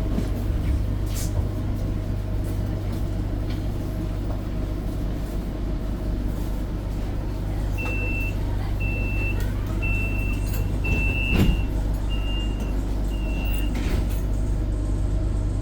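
Tram running, heard from inside the car as a steady low rumble. In the second half, six short, high electronic beeps sound at about one a second, with a single knock midway through them.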